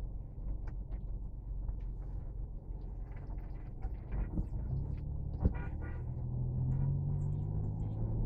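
Vehicle running, with steady low road and engine rumble as heard from inside; a steadier engine hum comes in about halfway through, with a single sharp knock just after.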